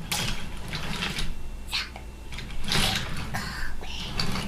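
Toy train and its pieces clicking and rattling in short irregular bursts as they are handled and run.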